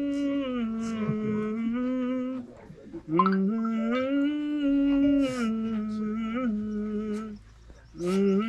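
A person humming a slow, wordless melody into a microphone, in long held phrases with short breaths between them, as a lead-in to a Telugu film song.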